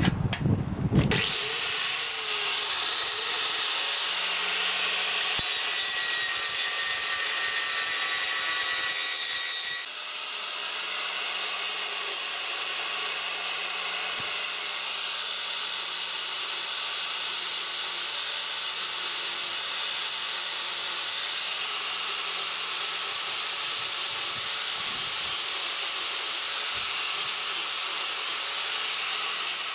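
A small power tool spins up with a rising whine about a second in, then runs steadily with a hissing, abrasive grind against the work. The sound shifts slightly about ten seconds in and cuts off at the end.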